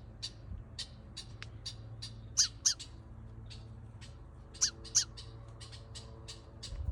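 Blackbirds calling: short, sharp chirps repeated about two to three times a second, with two louder pairs of calls about two and a half seconds in and again near five seconds.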